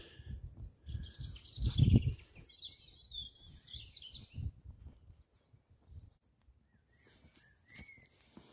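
Wild birds singing: a warbling call about two and a half to four and a half seconds in and short chirps near the end. Under it, low rumbles and a louder low thump about two seconds in.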